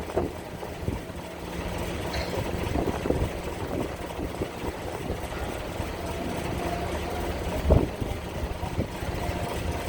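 Ferry engine running steadily with a low hum, while wind buffets the microphone; there is a stronger thump a little under 8 seconds in.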